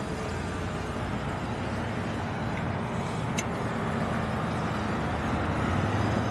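Steady low rumble of motor-vehicle noise, slightly louder near the end.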